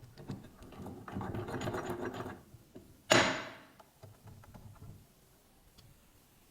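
Rapid mechanical rattling for about two seconds, then one loud sharp metallic clank that rings briefly, followed by a few faint knocks: metal parts being worked during a restoration.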